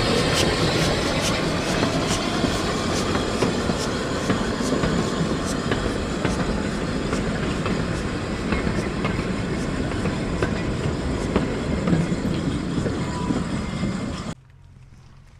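Narrow-gauge goods wagons and brake van rolling past, wheels clicking steadily over the rail joints. The sound cuts off suddenly near the end.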